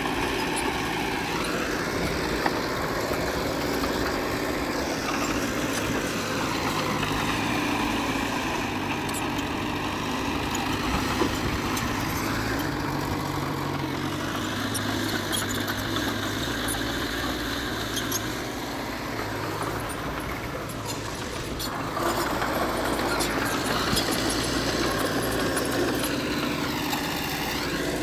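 Diesel engine of heavy earthmoving machinery running steadily, its revs rising and falling several times and getting louder about 22 seconds in.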